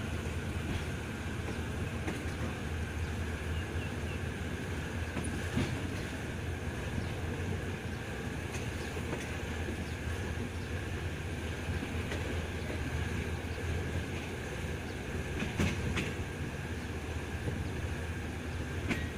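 Passenger train carriage running on the track, heard from inside the coach: a steady rumble of wheels on rail, with a few sharp clacks over rail joints.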